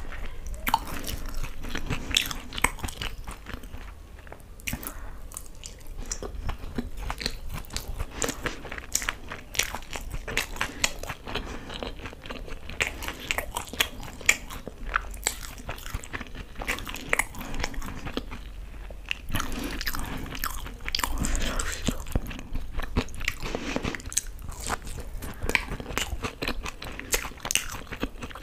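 Close-miked chewing and crunching of fried pakoras soaked in green chutney, a dense run of quick, crisp clicks and mouth sounds.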